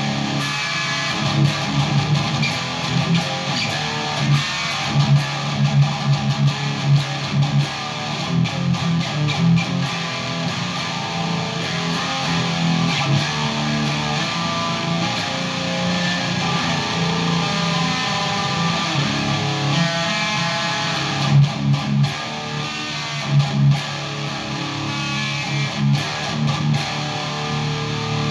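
Electric guitar played through a Randall Satan 120 tube amp head, riffing with repeated heavy low notes.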